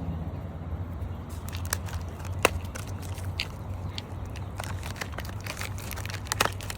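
Scattered light clicks and taps of new brake pads being handled, one sharper click about two and a half seconds in and a few more near the end, over a steady low hum.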